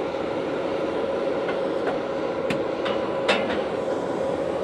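Heavy equipment engine running steadily, with a steady whine and a few sharp metallic clanks about two to three seconds in.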